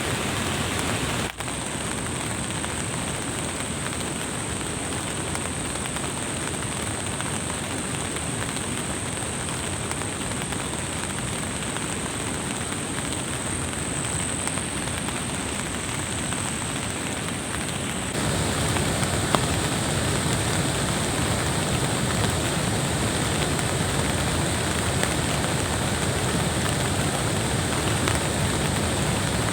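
Steady rain falling, with a thin, steady high-pitched whine over it. About 18 seconds in the sound changes to a fuller, slightly louder rush.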